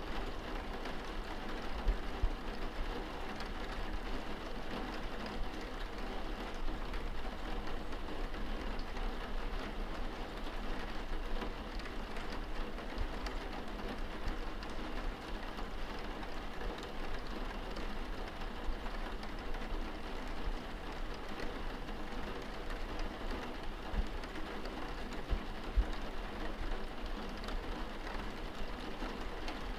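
Steady rain heard from indoors, drops pattering on window glass with a continuous hiss, and a few heavier drips or taps standing out now and then.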